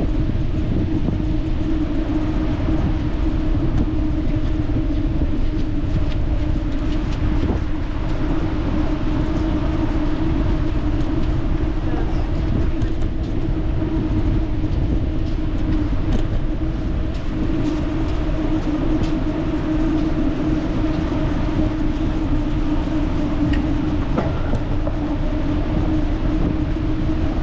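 Wind rumbling over the microphone of a moving bicycle, with a steady hum underneath.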